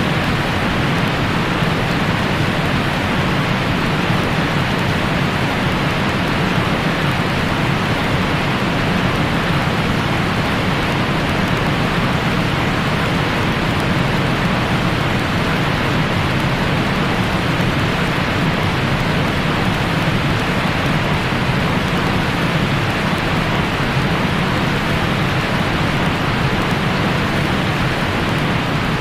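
Steady white noise for lulling a newborn to sleep: an even, unbroken rushing hiss, fuller and duller than a bright hiss, that neither rises nor falls.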